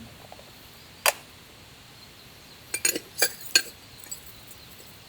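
Camp cookware and utensils being handled: a sharp clink about a second in, then a quick run of four clinks and knocks around three seconds in.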